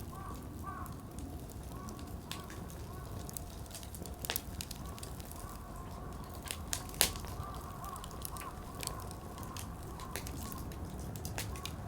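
Wood fire crackling in a Coleman Fire Disc fire pit: firewood popping in irregular sharp snaps, the loudest about seven seconds in, over a low steady rumble, with a faint wavering whistle-like tone underneath.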